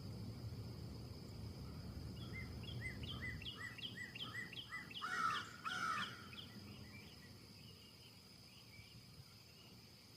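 Bird calling: a quick run of short, repeated descending notes, about three a second, with two louder, harsher calls a little past the middle. A low rumble of wind underneath fades out a few seconds in.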